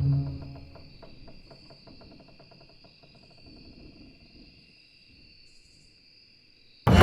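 Crickets trilling steadily as a low musical note dies away, leaving only the insect chorus; a sudden loud burst of music cuts in near the end.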